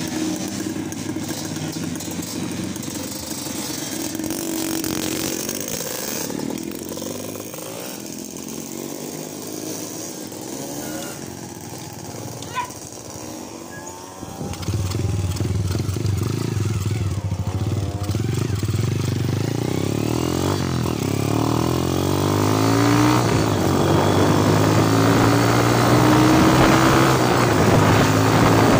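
Small underbone motorcycle engines running at idle, then a louder engine comes in sharply about halfway and keeps going with its pitch rising and falling as the bike gets under way.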